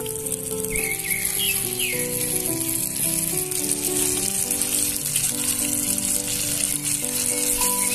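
Chicken pieces frying in a miniature clay pot with a steady sizzle, under background music of slow held notes stepping from pitch to pitch.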